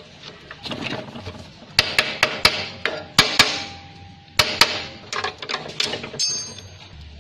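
Metal tools knocking and clinking on a Lambretta scooter's parts: a series of sharp, irregular strikes, some in quick clusters, with a brief metallic ring after a few of them.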